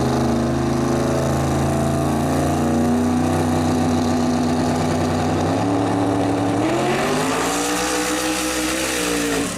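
Drag race car's engine running at high, steady revs, its pitch climbing about seven seconds in and then holding.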